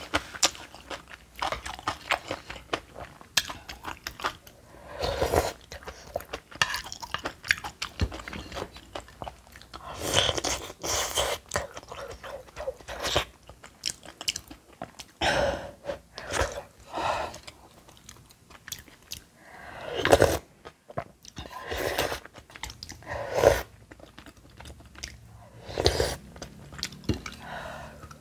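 A person chewing and crunching mouthfuls of bibimbap made with crisp seasoned aged-cucumber (nogak) salad, with many small crackles and louder crunchy bites every few seconds.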